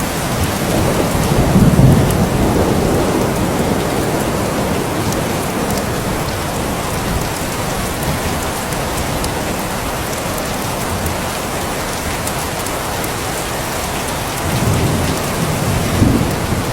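Steady heavy rain hissing, with two rolls of thunder rumbling through it: one swelling about a second in and fading over several seconds, another building near the end.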